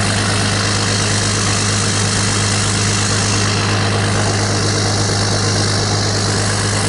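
Jeep's 3.0 common-rail turbo diesel idling steadily just after a cold start, a constant low diesel hum with no change in speed.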